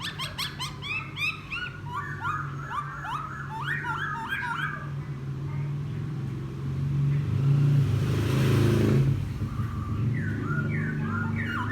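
Wild-caught laughingthrush singing its chattering song, quick chirps and whistles in bursts for the first few seconds, then singing again near the end. A low steady hum runs underneath, and a brief rushing noise swells up around eight seconds in.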